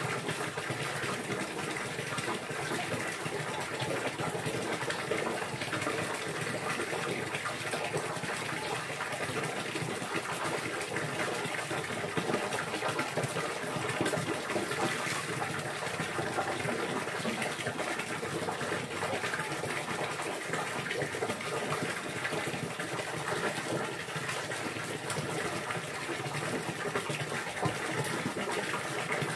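Steady rushing water, an even hiss that holds without change.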